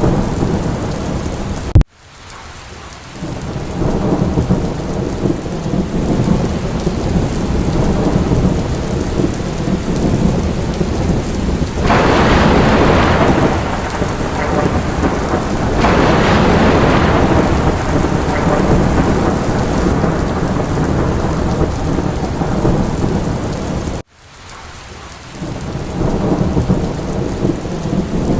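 Steady heavy rain with a low thunder rumble, swelling louder twice in the middle. About two seconds in and again near the end, the sound cuts out abruptly after a click and then fades back in.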